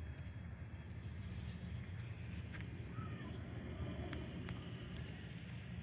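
Quiet outdoor night background: a low steady rumble with a constant thin high-pitched whine over it and a few faint clicks.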